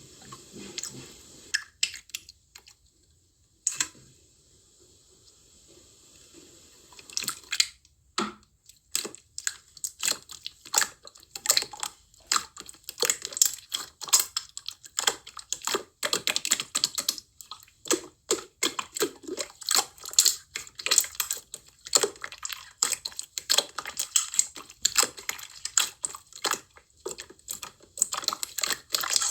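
Slime being squished and pressed by hand, giving rapid wet clicks and crackling pops. The pops are sparse at first and become a dense, continuous crackle from about seven seconds in.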